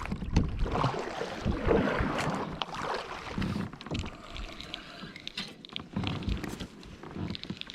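Water lapping and sloshing against a fishing kayak's hull, with scattered light knocks.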